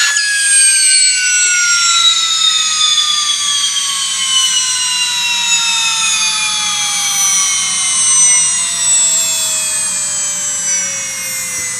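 Dynabrade 100,000 RPM air-turbine pencil grinder spinning down freely after its air is cut, a jet-like whine falling smoothly and steadily in pitch as the turbine coasts to a slower speed.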